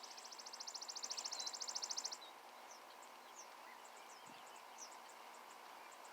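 A small songbird singing a rapid, even, high-pitched trill that swells in loudness and stops about two seconds in, followed by scattered short high chirps from birds.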